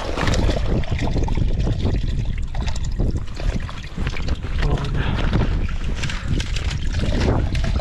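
Wind blowing hard on the microphone in a snowstorm: a loud, constant low rumble that swells and dips with the gusts.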